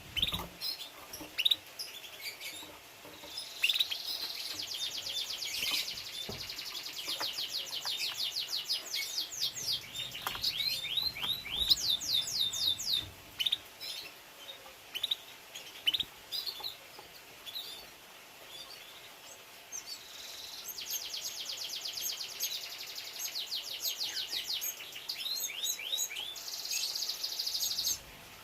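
Domestic canary singing: long, fast, high trills and rolls of repeated notes, broken in the middle by several seconds of scattered single chirps before the trilling starts again.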